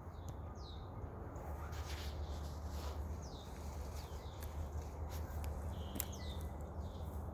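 A bird repeating a short, high call that slides downward, several times over a few seconds, over a steady low rumble.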